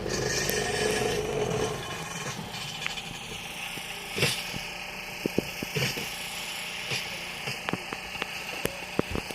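An engine running close by that drops away after about two seconds, leaving a steady outdoor background with scattered sharp clicks and knocks.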